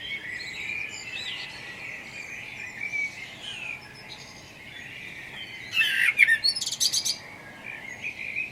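Spring dawn chorus: several songbirds singing and chirping over one another. About six seconds in, one louder, nearer bird bursts in with a rapid run of high notes lasting a second or so.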